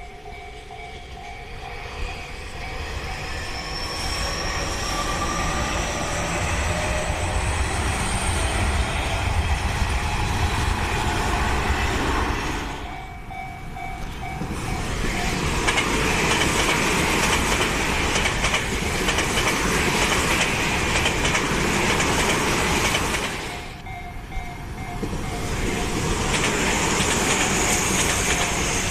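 Tobu Tojo Line electric trains passing at speed, with clattering wheels on the rails. Near the start an electric motor whine rises in pitch as a train speeds up. The passing noise drops away briefly twice.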